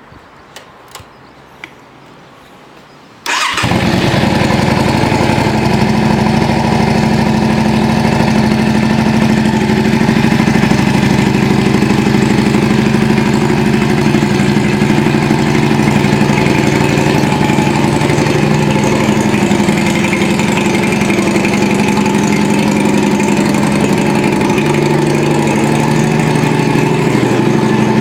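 A Yamaha Drag Star 400's V-twin engine, fitted with a custom muffler, fires up about three seconds in after a few faint clicks, then settles into a loud, steady idle.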